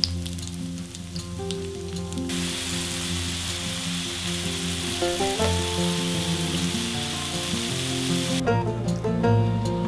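Fried tofu cubes and chopped vegetables sizzling in oil in a frying pan. The sizzle starts about two seconds in and cuts off suddenly near the end, over light plucked background music.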